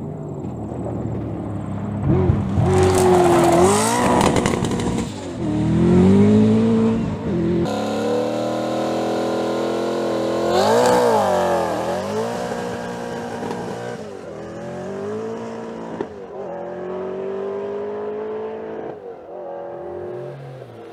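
Ferrari F40's twin-turbo V8 accelerating hard, revs climbing and dropping at each gear change. About halfway through there is a sharp blip of revs, then the car pulls away through several upshifts.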